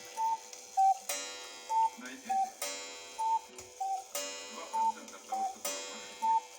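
Cuckoo clock with strike sounding the hour. A ringing gong strike comes about every one and a half seconds, alternating with a two-note falling "cu-ckoo" call; there are four strikes and five cuckoo calls, the calls loudest.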